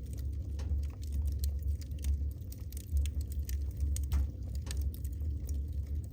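Wood fire burning in a fireplace, crackling with many irregular sharp pops and snaps over a low, unevenly swelling rumble of the flames.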